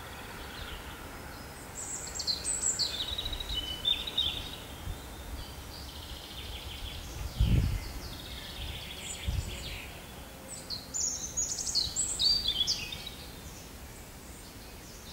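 Songbirds singing in short chirping phrases over a faint steady background, with two brief low thumps around the middle.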